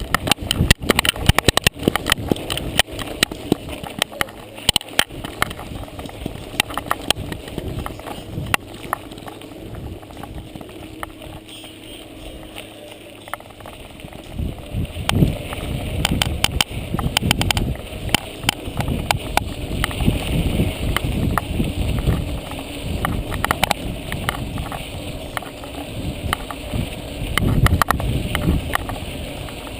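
Mountain bike ridden over a rough dirt trail: a rapid, irregular run of rattles and knocks from the bike, over a steady rumble that grows louder about halfway through.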